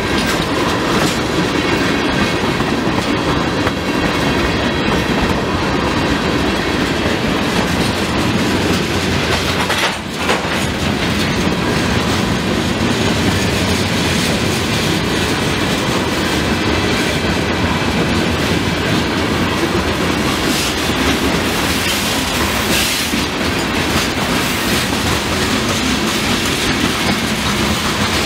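Railroad cars rolling past with a steady rumble of wheels on rail, dipping briefly about ten seconds in.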